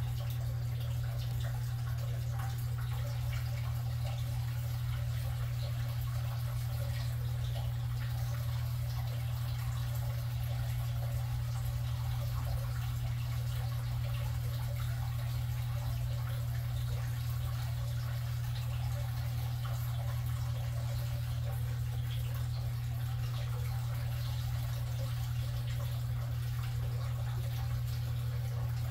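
A steady low hum under faint dripping, trickling water.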